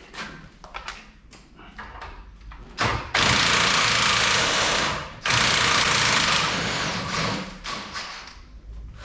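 A power tool runs in two bursts of about two seconds each, a short pause between them, after a few seconds of light clanking from tools and metal parts.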